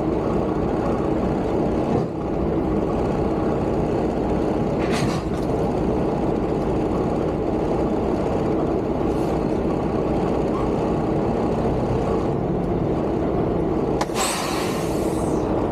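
Semi truck's diesel engine running steadily with a low drone. Short hisses of air come about five seconds in and again about nine seconds in, with a longer hiss near the end.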